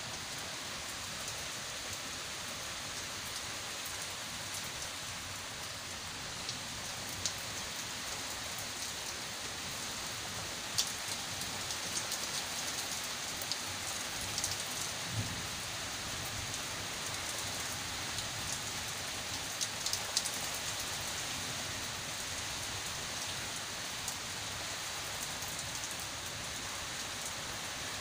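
Heavy rain pouring steadily onto garden foliage and a brick patio, with scattered sharp ticks of drops striking close by.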